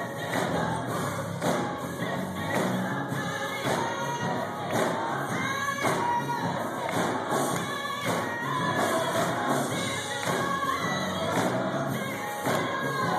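Gospel music: a choir singing with a band over a steady thumping beat.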